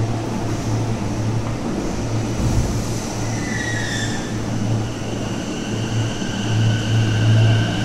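Electric commuter train at a station platform: a low hum that comes and goes, with thin whining tones from its electric drive setting in about halfway through.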